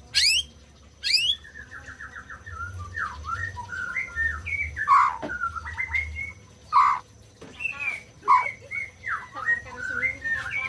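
White-rumped shama (murai batu) singing a varied song. It opens with two quick upward-sweeping whistles, then runs into rapid chattering and warbling notes, with louder whistled notes coming every second or two.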